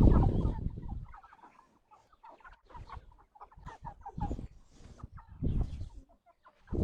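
Domestic chickens clucking, many short scattered calls overlapping. A loud low rumble in the first second.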